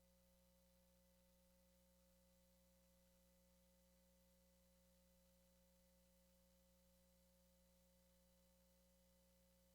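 Near silence: only a faint, steady hum and hiss with no change.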